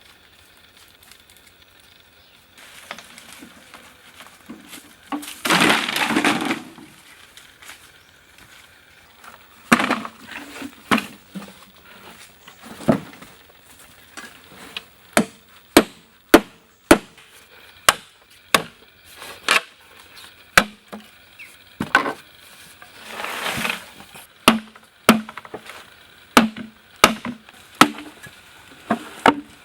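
Repeated sharp blows on wood, one after another at about one a second through the second half, with two longer stretches of noisy crackling, one early and one about two-thirds of the way through.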